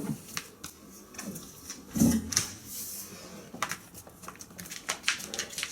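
A Saint Bernard eating: scattered sharp clicks and knocks, with a heavier knock about two seconds in.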